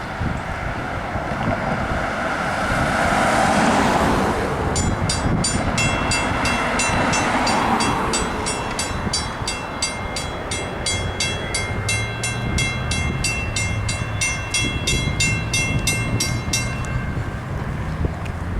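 Railroad grade-crossing bell ringing in even strikes, about two and a half a second, starting about five seconds in and stopping shortly before the end. Before it, a rushing sound swells and fades over the first seconds, and a low steady drone comes in during the second half.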